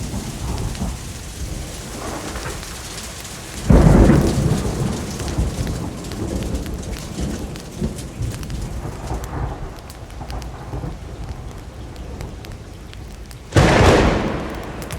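Steady rainfall with two sudden claps of thunder, about four seconds in and near the end, each rumbling away over a second or two.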